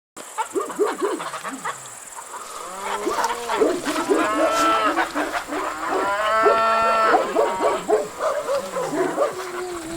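Cattle mooing, several cows calling over one another, with two long, strong moos in the middle.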